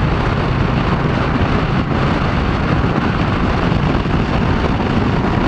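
The Moto Guzzi V100 Mandello's 1042 cc liquid-cooled 90-degree V-twin runs steadily under way, mixed with rushing wind noise on the microphone.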